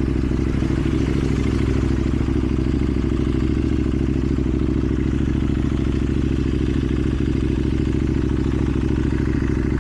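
KTM Duke 790's parallel-twin engine idling steadily through a slip-on exhaust, an even low beat with no revving.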